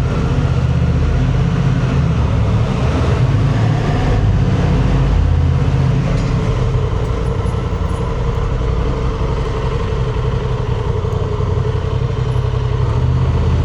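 Honda Transalp's 755 cc parallel-twin engine running under way as the motorcycle is ridden, over steady road and wind noise; the engine note shifts in pitch a few times.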